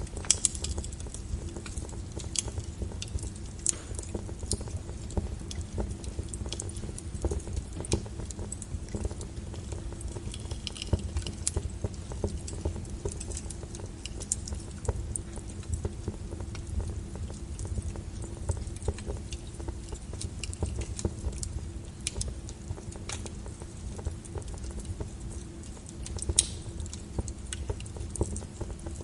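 Log fire burning in a fireplace, with a steady low rumble of flames and irregular crackles and sharp pops from the burning wood; a few louder pops stand out near the start and about 26 seconds in.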